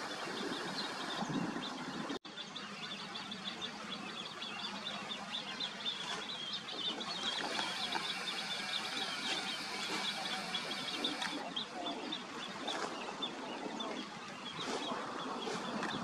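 Small birds chirping in a dense background chorus: many short high chirps overlap throughout, over a soft hiss.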